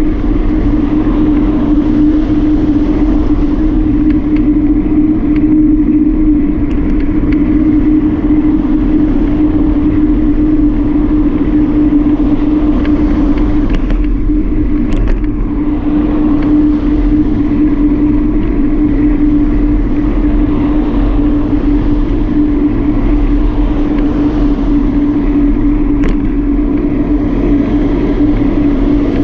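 Steady wind and road rumble from riding a bike with a GoPro mounted on it, with a constant humming drone and a couple of faint clicks.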